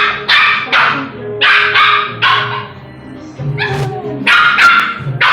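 Dog barking repeatedly in short, loud barks, about nine of them, some in quick pairs, with a wavering yelping whine a little past the middle.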